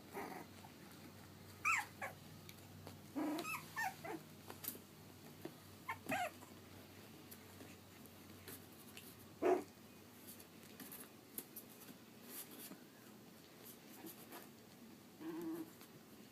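Three-and-a-half-week-old Pug–Dachshund mix puppies giving short, high-pitched whimpers and yips with a couple of low little growls, a handful of brief calls spread a few seconds apart.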